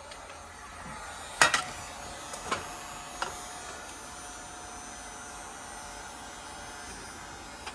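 Heat gun running steadily with a hum and hiss and a faint whine, heating a pot-metal trim piece. Three sharp metallic clicks in the first few seconds, the first the loudest.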